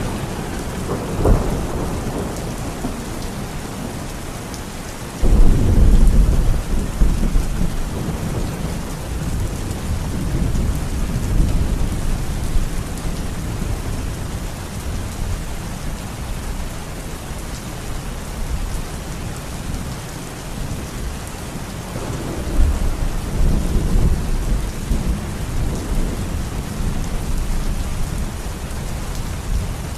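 Steady rain with thunder: a short clap about a second in, a loud clap about five seconds in that rumbles on for several seconds, and another rolling rumble a little over twenty seconds in.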